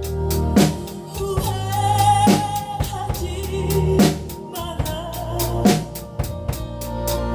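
Drum kit played to a steady beat along with a song that has a vocal line, with bass drum, snare and cymbal hits; the strongest accents come about every second and a half.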